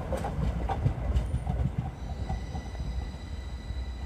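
Train moving through a station: wheels clicking over rail joints with a low rumble, gradually fading. About halfway through, a steady high-pitched whine sets in.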